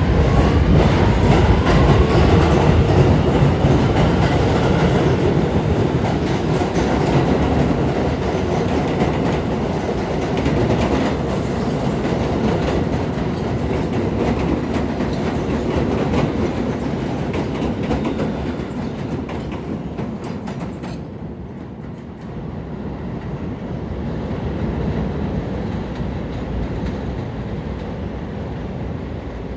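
An R211A subway train running on the rails with a heavy rumble and clickety-clack from the wheels. A rising whine in the first few seconds shows it picking up speed.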